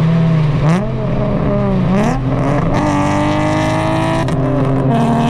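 V6 sports-car engine and exhaust revving hard: several quick rises and drops in pitch over the first few seconds, then a steady pull in gear with the pitch slowly climbing. Loud enough to hurt the ear.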